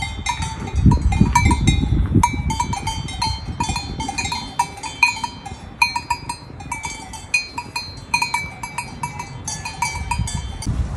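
Several livestock bells clanking irregularly, with many overlapping strikes each second, over a low rumble of wind on the microphone.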